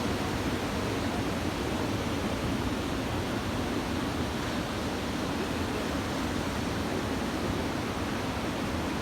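Steady rushing roar of surf from a typhoon swell, with no separate wave crashes standing out.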